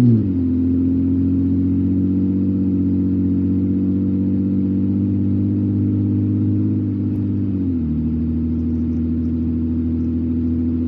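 Car engine heard from inside the cabin while driving, running at a steady pitch. The pitch drops just after the start and again about eight seconds in, as the automatic transmission shifts up.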